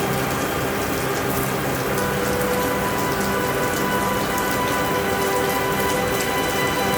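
Steady rain falling, a dense even patter of drops with no letup.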